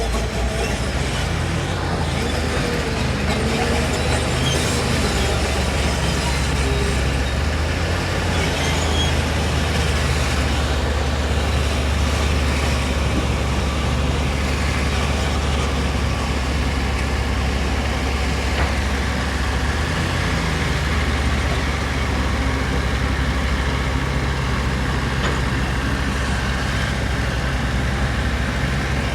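Heavy diesel construction machine running steadily under load, a deep even engine drone with a few brief squeals in the first few seconds.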